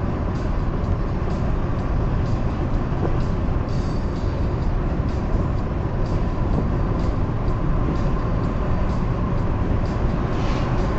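Car driving at highway speed: a steady rumble of tyres and engine.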